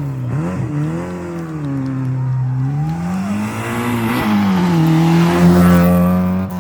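Rally car engine revving up and down through gear changes as the car is driven hard, its pitch rising and falling several times. It grows loudest near the end, then cuts off suddenly.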